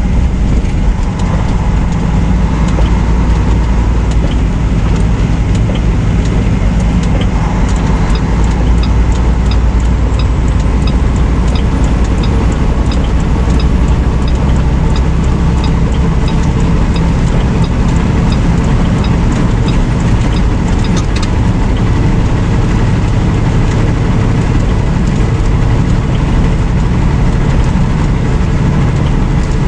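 Semi truck's diesel engine running steadily, heard from inside the cab as a loud, even low rumble with road noise. A regular light ticking, about one and a half ticks a second, runs through the middle stretch.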